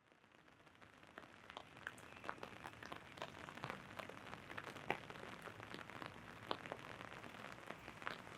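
Rain falling on an umbrella: scattered sharp drops tick irregularly on the canopy over a steady hiss of rain, fading in from silence.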